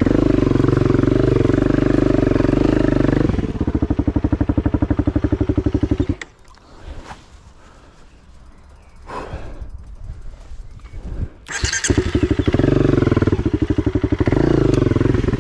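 Honda CRF250 dirt bike's single-cylinder four-stroke engine running, dropping to a slower pulsing idle about three seconds in, then cutting out suddenly. After about five seconds of quiet with faint rustling, the engine is running again.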